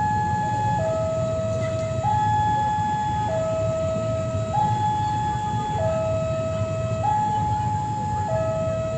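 Two-tone hi-lo siren alternating steadily between a higher and a lower note, each held for about a second and a quarter, over a low rumbling hum.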